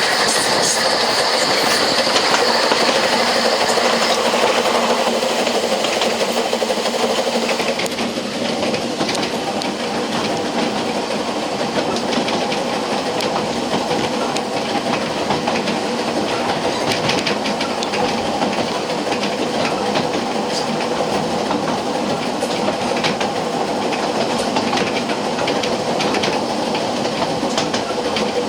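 Narrow-gauge passenger train running along the track, heard from a carriage: a steady rumble with the wheels clicking over the rail joints. A high hiss fades out in the first few seconds.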